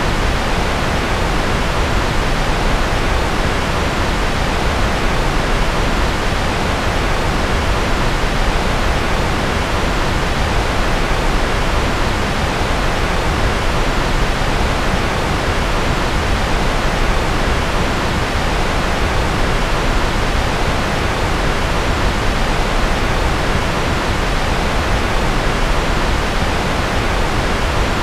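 Generated white noise: a loud, steady, unchanging hiss, fuller in the low and middle range than at the top.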